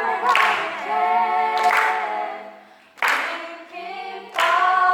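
A group of children singing a praise song together, holding long notes, with sharp claps about every second and a half.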